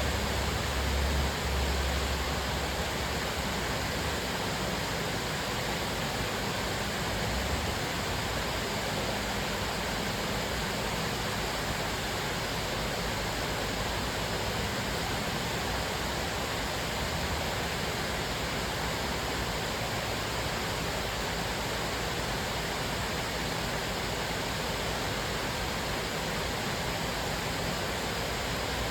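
Cascading waterfall: a steady, even rush of falling water, with a brief low rumble in the first few seconds.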